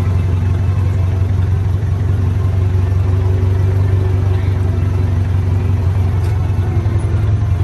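The motor of an antique-style park fire engine runs steadily at low speed, heard from on board: an even, deep engine hum.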